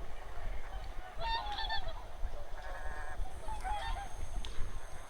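A flock of wild geese calling: short honking calls repeated and overlapping, a few every second, over a low rumble.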